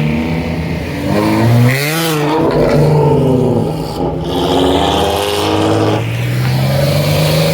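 A car engine revving hard as it accelerates, its pitch climbing and dropping back several times.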